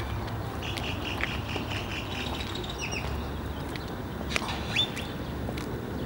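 Birds chirping: a quick run of repeated high notes about a second in, then a few short falling chirps and a single rising chirp near the end, over a low steady rumble.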